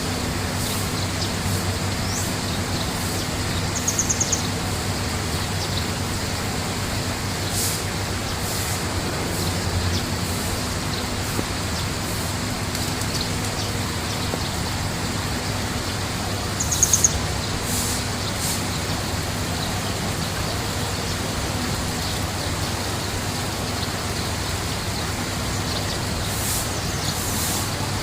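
A bird gives a short, rapid, high trill twice, about four seconds in and again a little past halfway, over a steady rushing background noise with a low hum.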